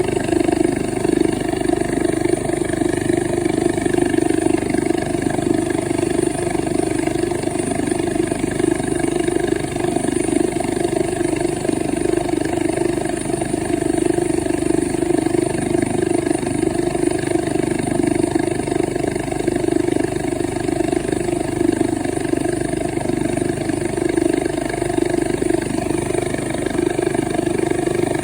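Medical transport helicopter running steadily: a constant loud mechanical drone with a thin high whine above it, holding level throughout.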